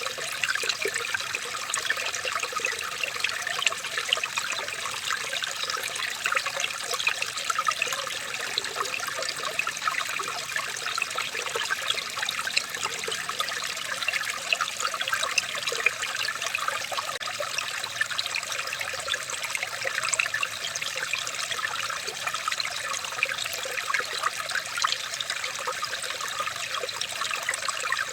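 Running water trickling and splashing steadily, a dense, even patter of small splashes with no change throughout.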